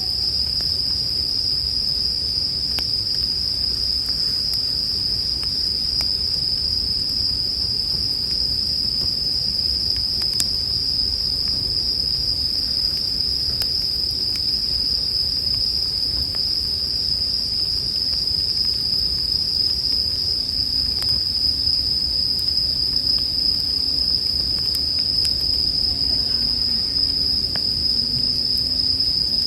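Japanese bell crickets (suzumushi) chirping in a steady, high-pitched, unbroken chorus, with a few faint crackles from a campfire beneath.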